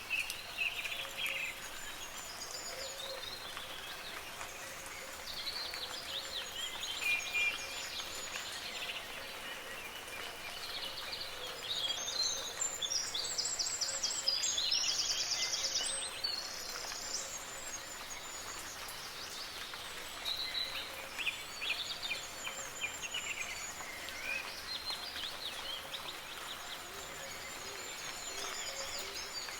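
Several songbirds singing and calling over a steady hiss of soft rain, with a louder, fast-trilling song about halfway through.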